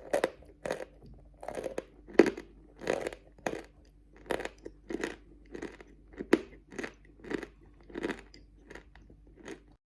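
A person chewing a mouthful of hard natural chalk (a grey-blue clay-chalk) close to the microphone, with a steady rhythm of dull, crunchy bites about every half second and a couple of sharper cracks.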